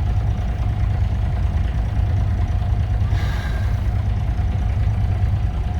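Sailboat's engine running steadily at low speed, a constant low rumble with a steady tone above it while the boat motors out of the harbour. A brief hiss rises and fades about three seconds in.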